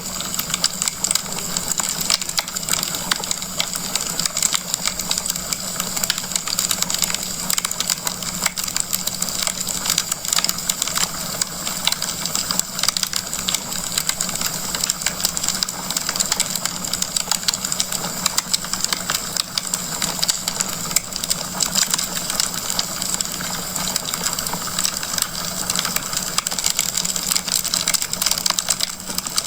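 Wood fire crackling in a fireplace: a dense, continuous stream of small pops and snaps from burning logs over a steady hiss.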